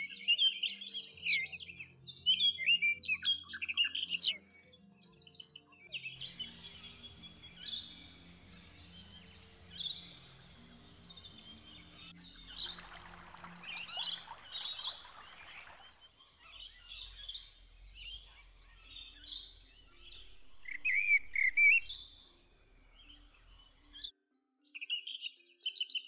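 Birds chirping and trilling: many short, high, varied calls from several birds, with faint soft music underneath. The sound breaks off briefly near the end.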